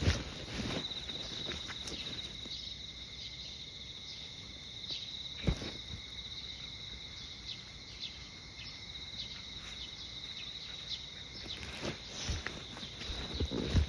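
Insects singing steadily in a continuous high-pitched trill, with a second, lower steady tone beneath it. A single sharp click comes about five and a half seconds in, and footsteps on the pavement return near the end.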